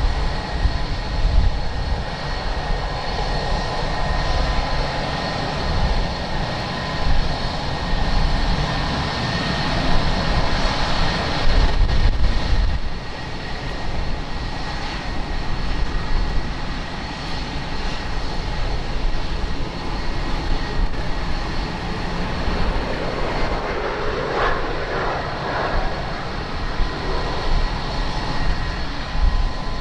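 Airliner engines running steadily: a continuous high whine over a low rumble.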